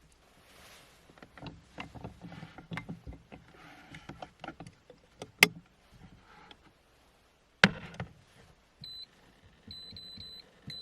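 Objects being handled, with a run of small clicks and knocks and two sharp knocks, the louder about three-quarters of the way through. Then an electronic appliance beeps with a high tone, in a short beep and then a longer one near the end.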